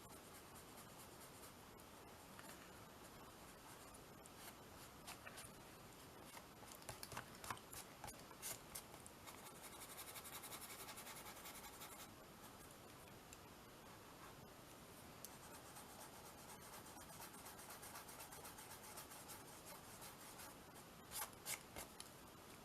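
Faint scratching and rubbing of art materials worked over a small canvas, with a short steadier brushing stretch near the middle. Scattered light clicks and taps come about a third of the way in and again near the end.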